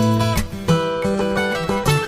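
Background music played on a plucked acoustic guitar, with notes changing about every half second.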